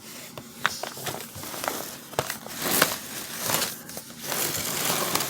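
Crinkly wrapping or packing being handled around the food: continuous crinkling and rustling with many light clicks.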